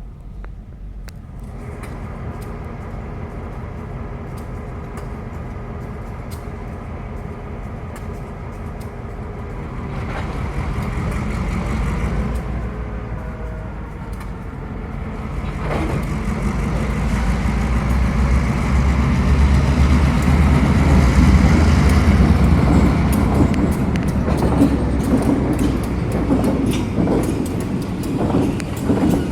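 Train passing through a road crossing: a steady low rumble that swells much louder about halfway through, then wheels clicking and knocking as the cars roll by. No crossing bell rings, because the crossing signals are not working.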